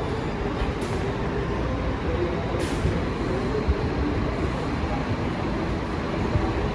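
Scania K440 double-decker coach's engine running with a steady low rumble and a faint drone. Two short hisses of air come about a second in and again a little before three seconds.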